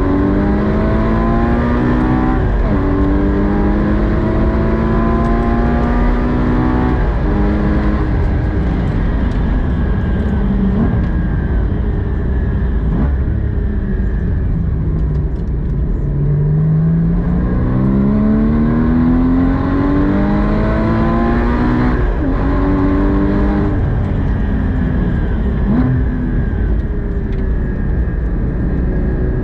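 Porsche 981 Cayman GT4's 3.8-litre flat-six heard from inside the cabin under hard track driving: the engine note climbs through the revs, drops at each gear change and falls away under braking, again and again, over a heavy rumble of road and wind noise.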